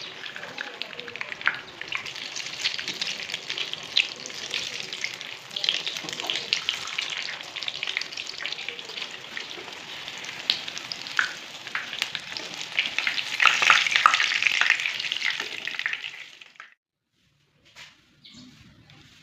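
Food frying in hot oil in a pan, a steady sizzle full of fine crackles that swells louder a few seconds before it cuts off suddenly near the end.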